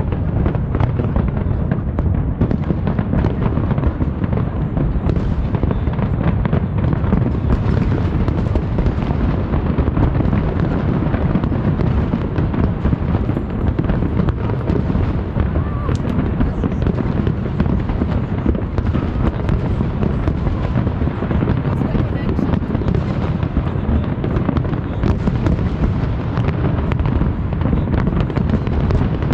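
Fireworks display: a dense, continuous barrage of overlapping bangs and deep booms with no let-up.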